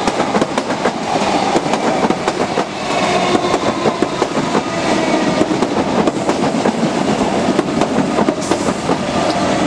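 Electric suburban passenger train passing close by, a steady rumble of its wheels on the track with a dense clickety-clack.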